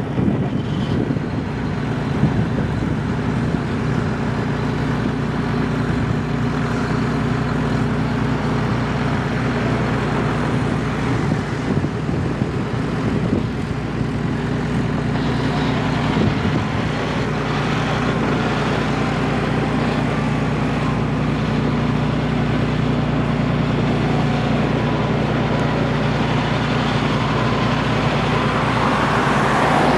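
John Deere 6155R tractor's six-cylinder turbocharged diesel engine running steadily, growing a little louder near the end.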